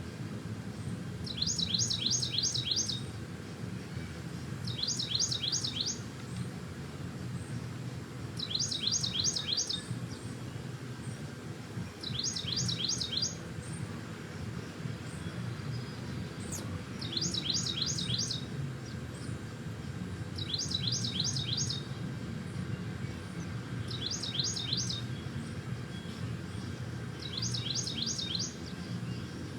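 A songbird singing the same short phrase over and over: a quick run of five or six high, downslurred notes, repeated about every three and a half seconds, eight times, over a steady low background hum.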